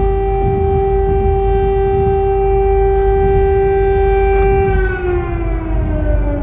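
Air-raid siren holding a steady wail, then winding down in pitch from about five seconds in, over a low rumble.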